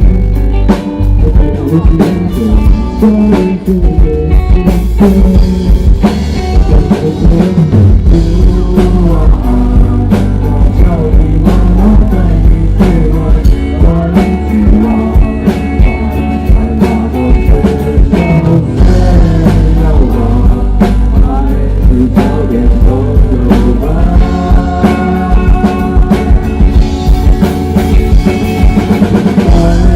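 Rock band playing live: drum kit, guitars and bass with a singer, loud and heavy in the low end.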